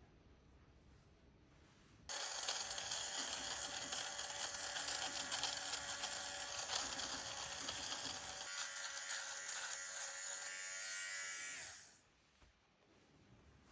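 A small electric motor starts suddenly and runs with a steady whirring hum for about ten seconds, then winds down with falling pitch and stops.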